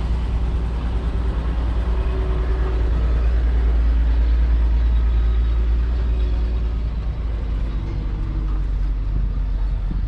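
1942 AEC Matador's 7.7-litre six-cylinder diesel engine running steadily with a low, even note, growing a little louder toward the middle and easing off again.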